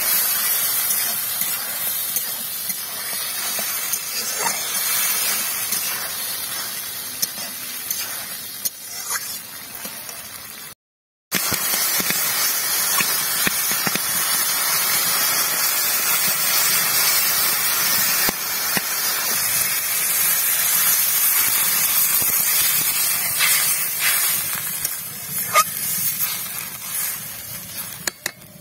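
Tomato curry sizzling and bubbling in hot oil in a metal kadai, a steady hiss with a few sharp scrapes and taps of a metal spatula against the pan. The sound cuts out for a moment about eleven seconds in.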